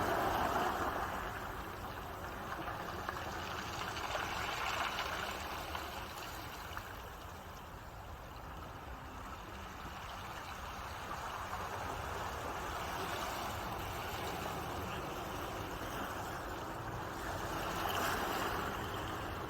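Ocean waves washing onto the shore and draining back. The rush swells and eases in slow surges, with a stronger wash about four seconds in and another near the end.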